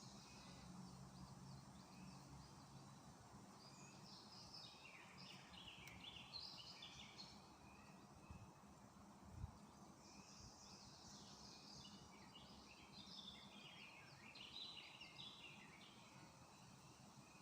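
Faint birdsong in the open: a long, busy phrase of high twittering about four seconds in, and another from about ten seconds in, over a low steady hum.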